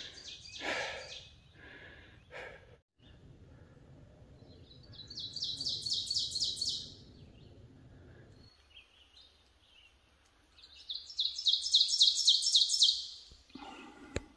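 A songbird singing twice, about six seconds apart; each song is a couple of seconds of quick, repeated high notes.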